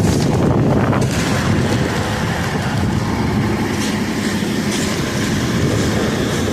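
Steady running noise of a semi truck driving, engine hum and tyre and road noise together.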